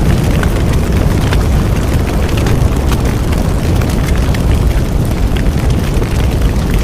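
Bonfire burning with a steady low roar and scattered sharp crackles and pops from the burning wood.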